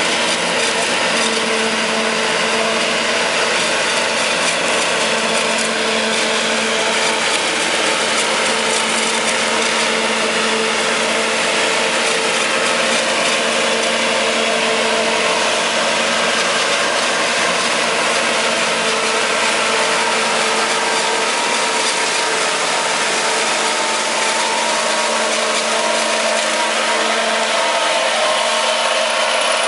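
Kubota tractor and its harvester running steadily at working speed while filling a wagon: a constant mechanical hum with a dense whirring, grinding noise over it.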